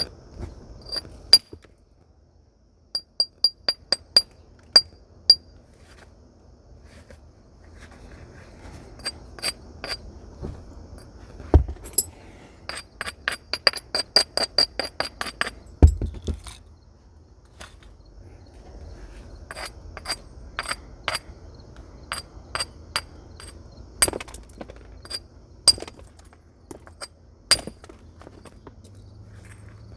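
Flint nodule being struck with a natural knapping tool: sharp, glassy clinks, some single and some in short runs, with a fast string of light taps in the middle. Two dull low thuds fall among the taps.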